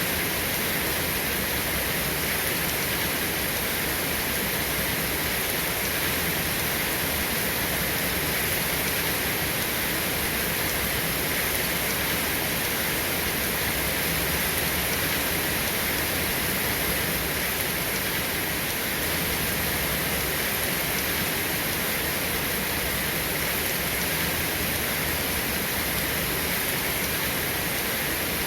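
Steady heavy rain falling, an even, unbroken hiss with no thunder claps.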